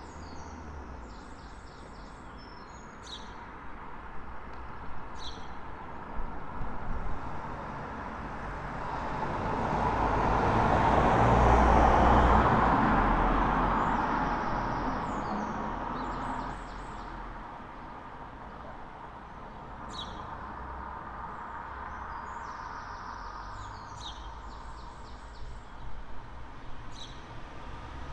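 A single road vehicle passing along the street, growing louder to a peak about halfway through and then fading away. Before and after it, a songbird sings repeated short, high phrases.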